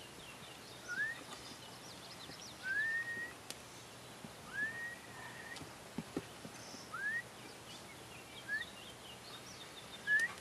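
A bird calling outdoors: about six short rising whistles a second or two apart, each sliding up and levelling off, with faint higher chirps between them. A couple of sharp clicks stand out, one in the middle and one near the end.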